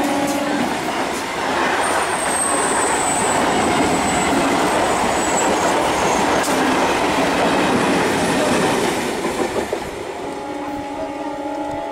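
EMU local train running past close by, its wheels rumbling and clattering over the rails, with a high thin wheel squeal for a few seconds, then fading as it moves away. A steady siren tone cuts off in the first second and sounds again near the end.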